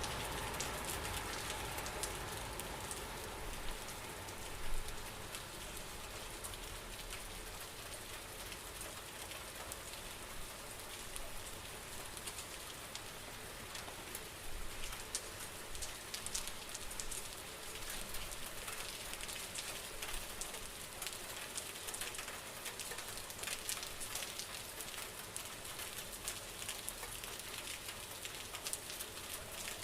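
Steady rain, with many individual drops ticking sharply against a surface over an even hiss; a little louder in the first few seconds, then even.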